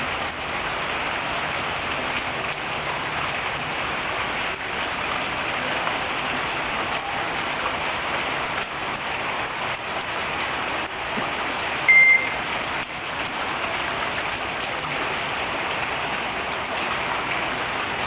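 Steady rain falling, with one short high beep about twelve seconds in.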